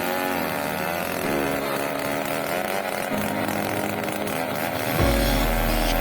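Engine-driven saw running while cutting mahogany, its pitch wavering up and down as the load changes. About five seconds in, music with a heavy bass comes in over it.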